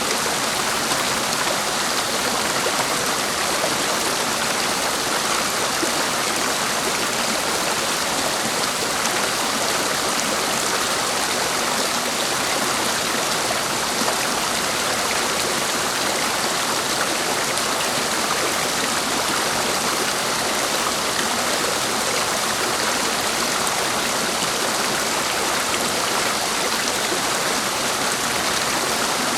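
Clear mountain stream rushing steadily over its bed.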